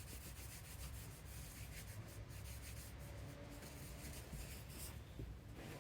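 Faint, irregular rubbing and scraping sounds of hand work.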